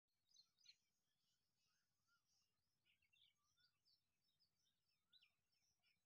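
Faint chirping of several small birds: many short high chirps mixed with a few short whistled notes, loudest in the first second.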